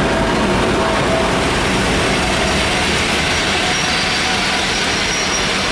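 A diesel-hauled passenger train pulling slowly into a station platform: the 2M62U diesel locomotive's engines running and the passenger coaches rolling past, a steady loud rumble and rush of noise with a low engine hum underneath.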